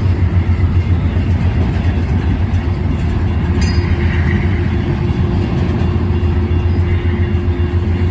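Freight train rolling past on the rails, a loud steady low rumble.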